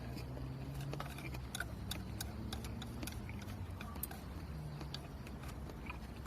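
Wood campfire crackling: irregular small pops and snaps over a steady low rumble.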